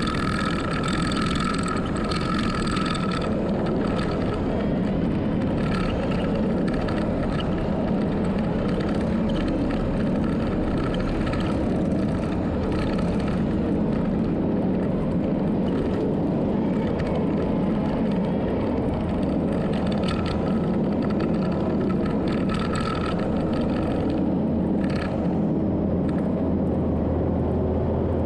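Heavy earthmoving machine running steadily under load, with a high whine that comes and goes.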